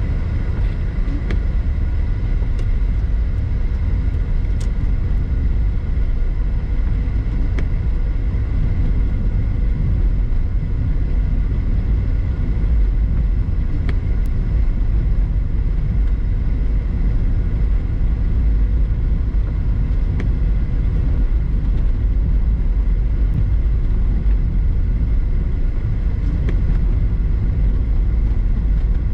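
A car driving steadily on the road, heard through a dash cam: a continuous low rumble of engine and tyres with no change in pace, and a few faint clicks here and there.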